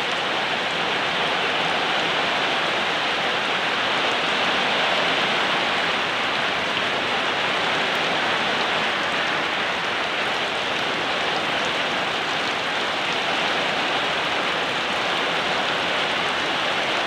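Steady rainfall, an even hiss of rain with many small drop patters.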